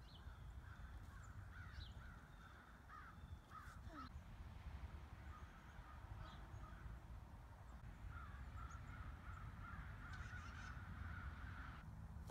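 Faint harsh bird calls in repeated series, over a steady low outdoor rumble.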